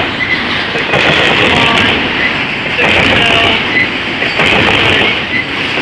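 Intermodal freight train's cars rolling past close by: a loud, continuous rumble and clatter of steel wheels on the rails, with a few short squeals from the wheels.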